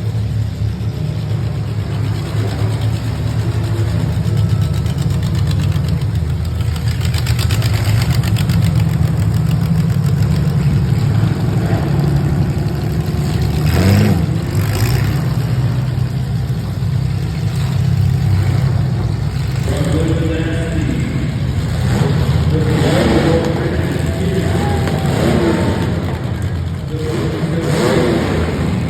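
Welded compact demolition derby car's engine running and revving, with a sharp knock of a hit about halfway through.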